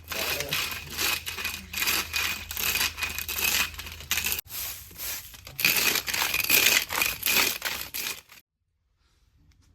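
Rapid, repeated rustling and tearing sounds, several strokes a second, that stop abruptly near the end.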